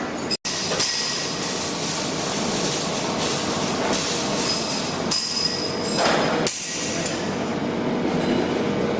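Steady, dense noise of a welding workshop at work, with a few louder knocks about five and six seconds in. The sound drops out for an instant just under half a second in.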